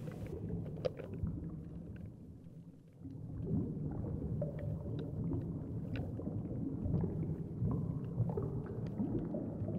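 Underwater reef sound heard through an action camera's waterproof housing: a steady, muffled low rumble of moving water with scattered faint clicks and crackles. The rumble dips briefly about two to three seconds in.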